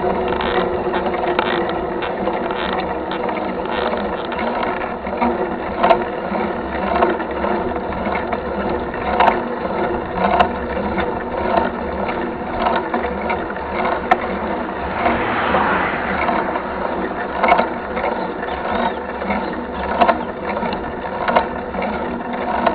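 Mountain bike's rear freehub ratchet buzzing steadily as the bike coasts, with repeated knocks from the bike jolting over the trail.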